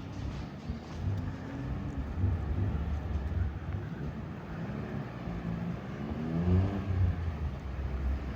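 Road traffic: motor vehicle engines running low and rough, with one engine rising in pitch as it accelerates about six seconds in.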